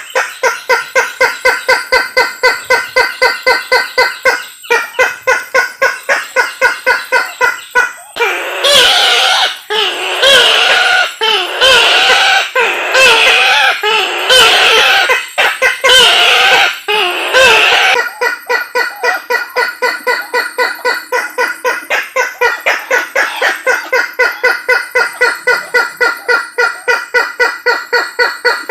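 Recorded lure call of the kareo sulawesi (Isabelline bush-hen), a Sulawesi rail. It gives a long run of short repeated notes, about four a second. From about eight seconds in comes a louder stretch of quavering, wavering calls in about seven bursts, and then the fast run of notes resumes.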